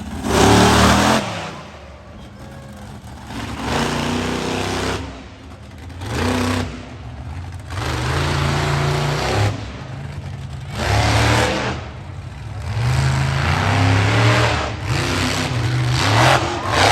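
Monster truck engine revving in repeated surges, rising and falling every two to three seconds.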